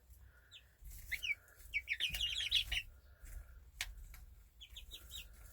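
Young chickens peeping and chirping in quick runs of short high notes, with a single sharp click about four seconds in.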